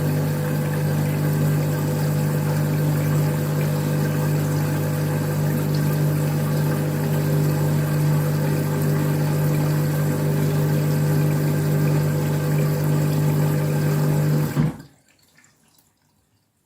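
Washing machine taking in water for another fill: a steady rush of water with a constant low hum, cutting off suddenly near the end.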